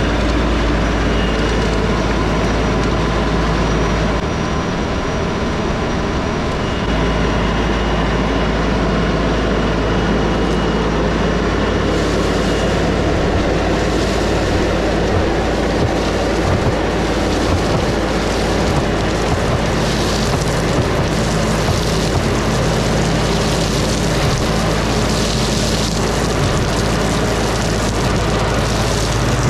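LS MT357 tractor's diesel engine running steadily under working load. From about twelve seconds in, patches of hiss come and go over the engine sound.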